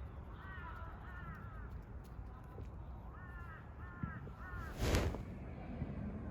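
A crow cawing: two caws near the start, then three in quick succession a few seconds later. A brief, loud noise comes just after the last caw.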